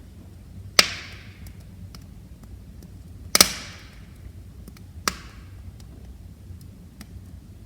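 Wood fire crackling in a fireplace: three loud sharp pops, each trailing off in a brief hiss, over faint scattered ticks and a low steady rumble of the flames.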